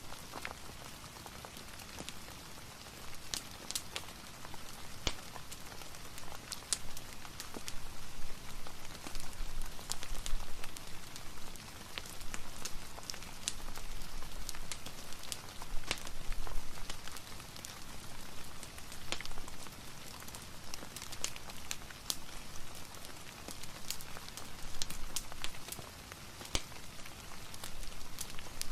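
Steady rain patter with many scattered sharp crackles and ticks, the rain swelling and easing every few seconds, mixed with a fireplace crackling.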